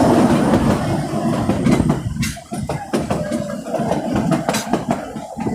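Train running on its rails: a dense rumble, then from about two seconds in a run of irregular sharp clicks and knocks from the wheels.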